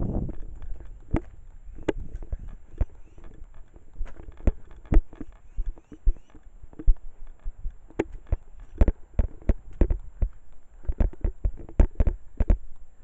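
Footsteps of someone walking: a series of separate, sharp steps, about one to two a second, coming more often in the second half.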